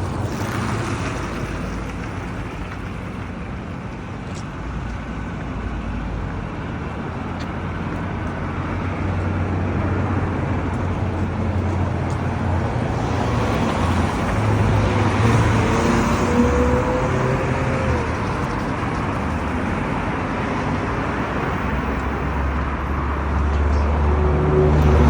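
Street traffic noise, with cars passing. The noise swells in the middle, and a low engine hum builds near the end as a heavier vehicle comes close.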